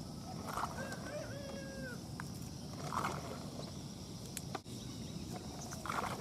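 Steady high insect drone with a faint distant call about a second in, and three brief soft noises about two and a half seconds apart.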